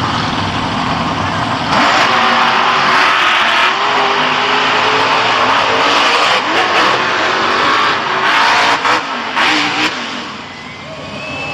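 Monster truck engine running hard and revving, its pitch rising and falling. It gets louder about two seconds in and eases off near the end.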